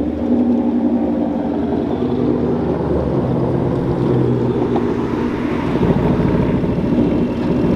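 Car engines running low and steady as cars roll through at low speed, with a deeper rumble swelling about six seconds in.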